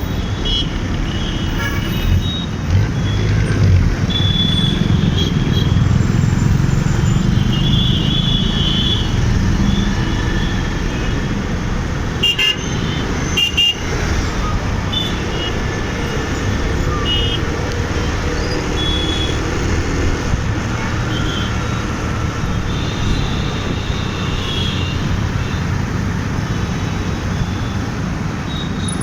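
Busy city road traffic heard from a moving bike: a steady low rumble of engines and road noise, with frequent short horn honks from surrounding vehicles throughout.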